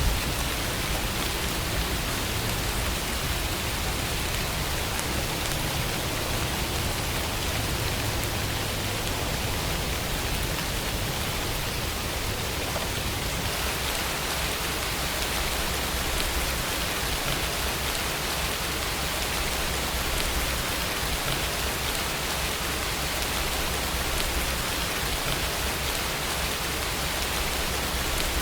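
Steady, even rainfall: a dense hiss of rain with fine drop patter, unchanging throughout.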